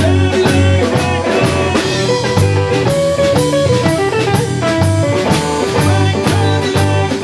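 Live blues-rock band playing an instrumental passage: electric guitar lead with sustained, bending notes over bass and a drum kit keeping a steady beat of about two kicks a second.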